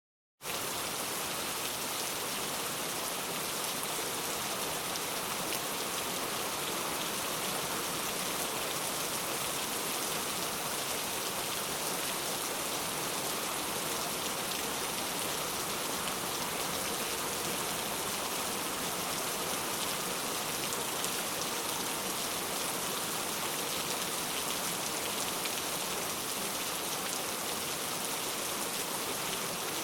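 Steady rain falling and pattering on a surface, an even, unbroken hiss of many drops.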